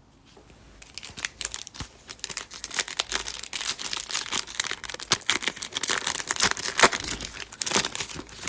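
Wrapper of a baseball card pack being torn open and crinkled, a dense run of crackling that starts about a second in.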